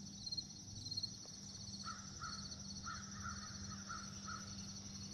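A bird calling: a quick series of about seven short, faint calls starting about two seconds in, over a steady high chirping in the background.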